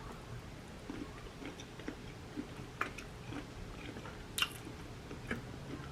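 Close-up mouth sounds of a person eating seafood-boil shrimp: irregular wet chewing and smacking with sharp clicks, the loudest about three and four and a half seconds in.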